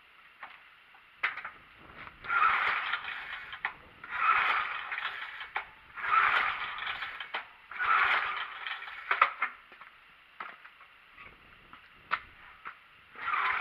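Small garden-tractor engine being cranked over four times in a row, about two seconds apart, with its choke held closed; it turns over but does not fire.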